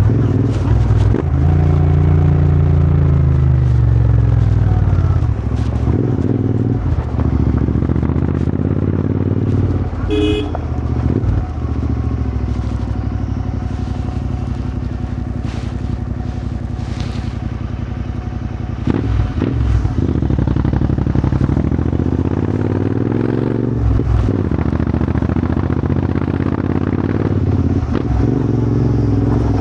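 Royal Enfield GT650's 648 cc parallel-twin engine through a Powerrage aftermarket exhaust, heard while riding: the revs fall away over the first few seconds, hold steadier, then climb again in the second half. A short horn beep sounds about ten seconds in.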